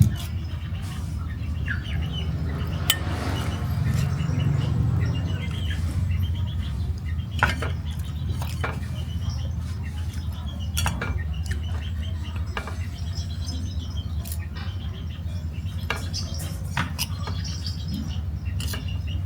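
Scattered clinks and knocks of cooking utensils against dishes and pots, over a steady low background noise.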